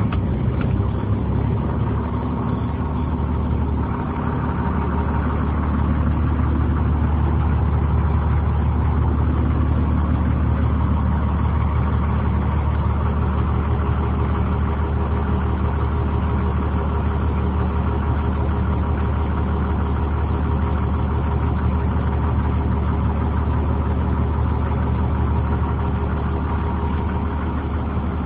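International diesel engine of a 2003 Blue Bird short school bus idling steadily just after a start, settling slightly about four seconds in.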